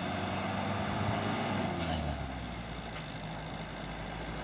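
Heavy truck engine running under load on a climb, its pitch sliding down over the first two seconds and then holding steady.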